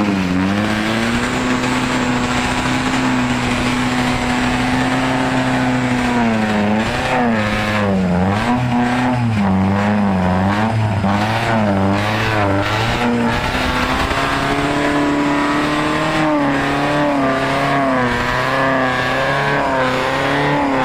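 A vehicle engine revving hard and held at high revs. Its pitch climbs just at the start, holds, swings up and down for several seconds, then settles a little higher.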